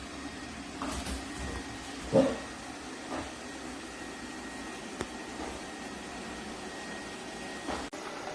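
Robot vacuum cleaner running with a steady hum and a thin high whine, with a bump about two seconds in and a few lighter knocks.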